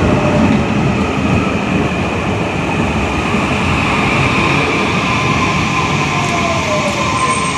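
Train running by with a steady rumble and a faint high whine; near the end one tone slides down in pitch.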